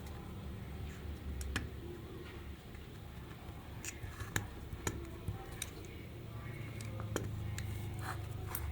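Scattered sharp light clicks and taps at irregular moments, over a low steady hum.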